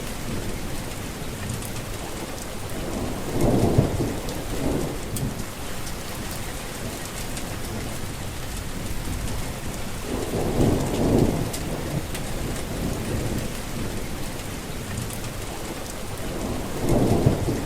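Heavy rain falling steadily, with thunder rumbling three times: about three and a half seconds in, about ten seconds in, and near the end.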